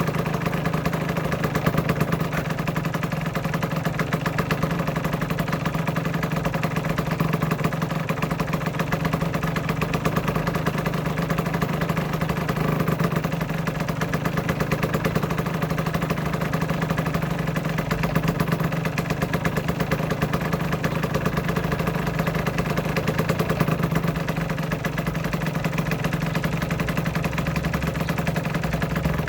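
Aprilia RS125's single-cylinder two-stroke engine idling steadily, with an even, unchanging beat.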